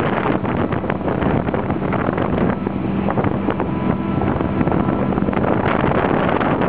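A parasailing tow boat's motor running under heavy wind buffeting on the microphone. A steady engine hum shows through the wind in the middle.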